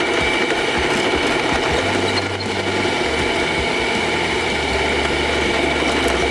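Electric power tool running steadily, with a continuous high whine over its noise.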